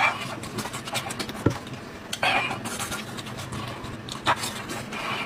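Close-miked eating: chewing and wet lip-smacking on soft braised sheep-head meat, in a few irregular bursts with breaths between, and a short sharp click about a second and a half in.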